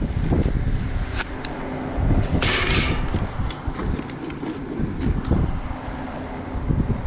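Handling and clatter of work on an air-conditioner condenser fan motor, with scattered knocks over a steady low hum. A brief harsh scrape comes about two and a half seconds in.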